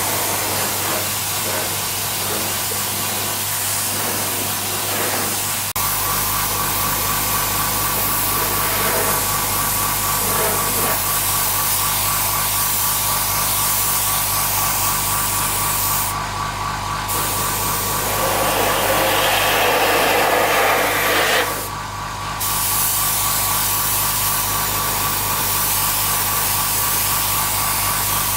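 Steady workshop machine noise with a fast rhythmic whirr, and a hissing spray for a few seconds a little past the middle; the sound changes abruptly a few times.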